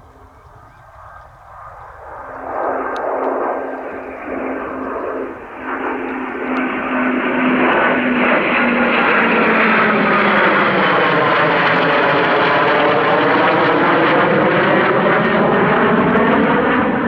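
Eurofighter Typhoon's twin EJ200 jet engines, growing louder over about eight seconds as the jet closes in, then holding loud and steady with a sweeping, phasing whoosh as it passes close by.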